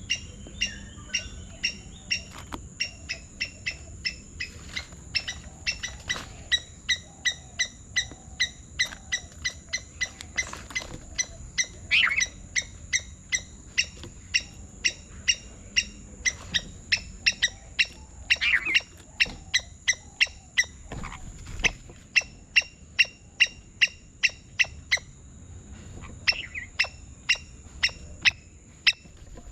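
A bird giving short, sharp calls in a fast, even series of about three a second, with a few longer, louder calls in between and a brief pause near the end.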